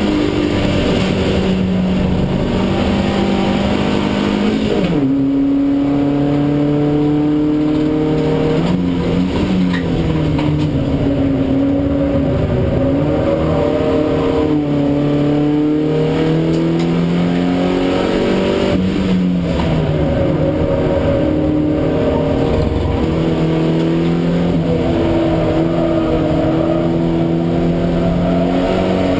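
Geely Panda race car's engine heard from inside the cockpit, driven hard: its pitch keeps climbing and then stepping down at gear changes and lifts, with sharp drops about five seconds in and again near the nineteen-second mark.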